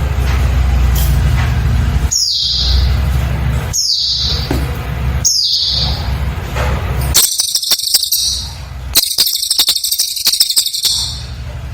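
A cililin bird singing: three sharp high notes, each dropping in pitch, then two long, fast, rattling high trills in quick succession. A steady low hum runs underneath.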